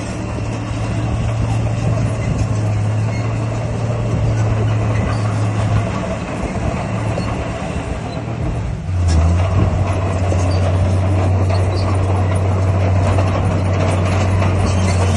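Heavy diesel engine of earthmoving machinery running steadily under a rumble of mechanical noise. About nine seconds in, the engine note drops in pitch and gets louder.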